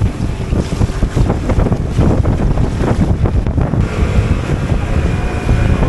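Wind buffeting the microphone on a moving boat at sea, a loud, gusty rumble over the rush of water.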